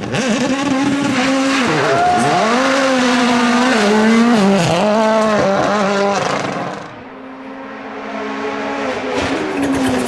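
Rally car engine revving hard, its pitch dropping and climbing again several times as the driver lifts and shifts. About seven seconds in it turns quieter and steadier, then grows louder again near the end.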